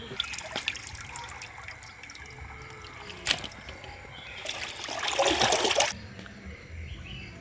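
Water trickling and splashing in a vessel, with a sharp knock about three seconds in, then a loud pour of water for about a second and a half that cuts off suddenly.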